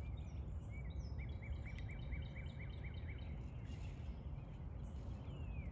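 A small bird singing a quick run of about a dozen short repeated chirps, about five a second, plus a few scattered higher calls. Underneath is a steady low rumble of background noise.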